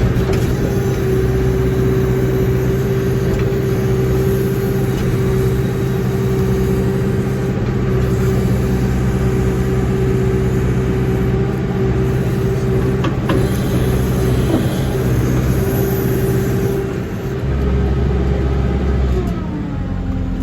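Backhoe's diesel engine running steadily at working revs while digging, with a steady hydraulic whine over it and a couple of knocks partway through. Near the end the engine note drops.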